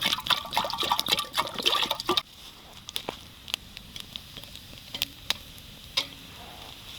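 Water being poured into a kettle to make tea: a splashing, gurgling pour that stops abruptly about two seconds in, followed by a few scattered sharp clicks.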